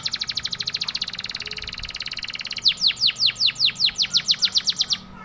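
Domestic canary singing a long song. It starts with a very fast trill of short notes, then breaks into louder downward-sweeping chirps at about seven a second, and stops just before the end.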